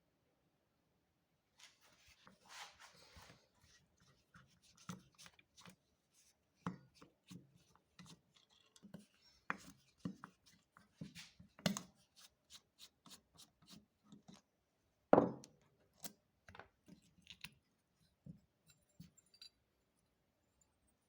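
Small hard parts and hand tools being handled on a work surface: irregular clicks, taps and light clatter, with one louder knock about fifteen seconds in.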